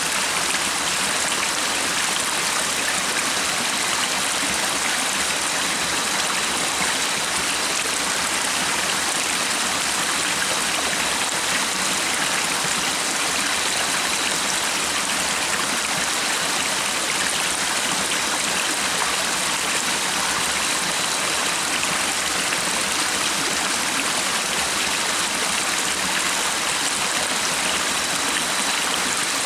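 A stream of water running steadily, an even rushing with no change in level.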